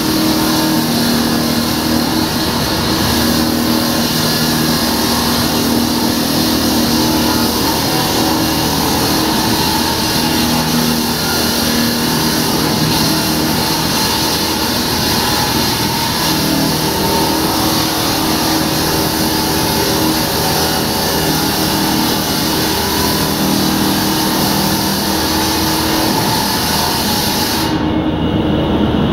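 Diamond-blade concrete saw running and cutting steadily, a loud continuous engine and grinding noise.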